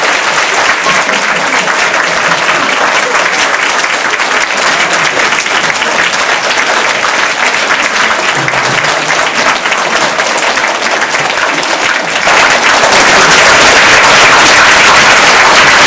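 Audience applauding steadily, growing louder about twelve seconds in.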